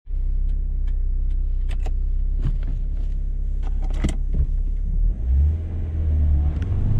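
Car engine heard from inside the cabin of a manual-shift car: a steady low drone with scattered light clicks and rattles. About five seconds in, the engine note grows louder and rises as the car pulls harder.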